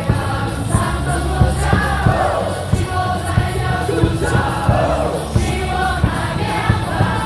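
Baseball stadium crowd singing a cheer song along with loud amplified music, over a steady beat of drum hits or claps.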